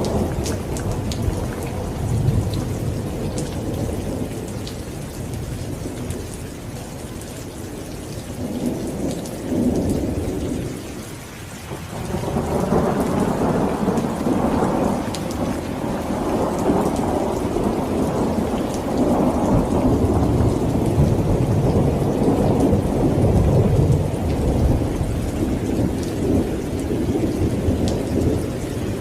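Heavy rain pouring, with a deep rumble underneath that swells and fades, dips about eleven seconds in, then builds again and stays strong.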